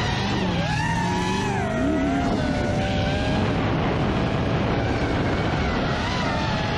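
A car engine running under a constant rush of noise, its pitch gliding up and down in the first few seconds.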